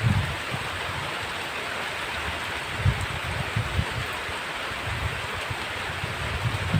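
Heavy rain falling in a steady hiss. Brief low rumbles come and go under it, about three seconds in and again near the end.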